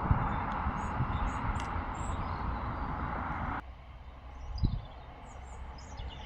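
Noise of a passing vehicle fading away, with small birds chirping over it. The noise cuts off abruptly a little past halfway, leaving quieter outdoor background and birdsong, with one brief low sound about a second later.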